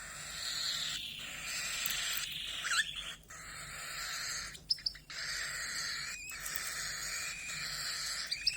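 Pet canary singing a long, nearly unbroken run of rapid high trills and warbles, with only a few brief pauses.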